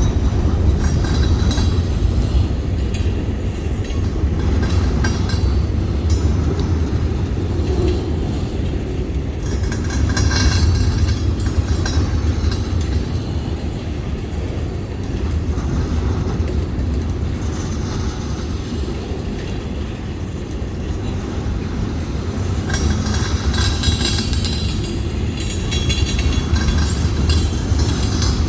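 Freight train rolling past with a steady low rumble and the clatter of wheels on the rails. The clatter grows louder and brighter about ten seconds in and again near the end.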